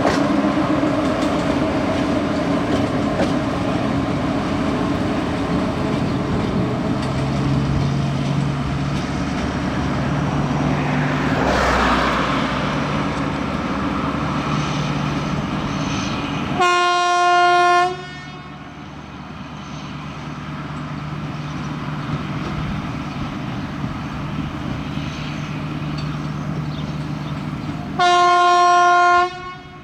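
TGM40 diesel-hydraulic shunting locomotive running, with its engine's steady low hum, then sounding its horn in two short single-note blasts about ten seconds apart.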